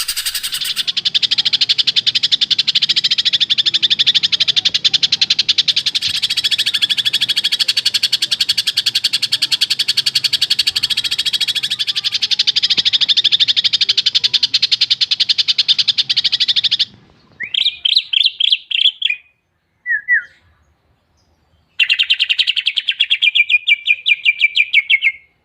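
Cucak ijo (green leafbird) singing a long, fast, unbroken chattering song. After about seventeen seconds it breaks off into short rapid phrases and one brief note. Near the end comes a final fast trill.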